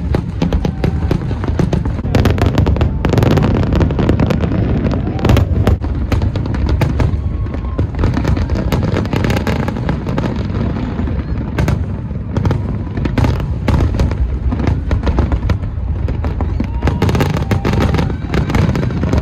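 Fireworks display: a rapid, continuous barrage of bangs and crackles as shells burst in quick succession over a steady low rumble, with the densest volleys about a quarter of the way in, around the middle and near the end.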